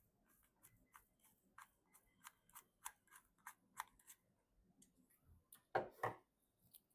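Light, sharp clicks of hardware being handled in a PC build, about three a second for the first few seconds, then two louder knocks in quick succession near the end.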